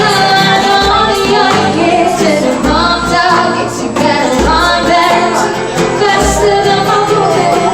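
Several voices, women's among them, singing a pop song live, over a low beat that lands roughly every one to two seconds.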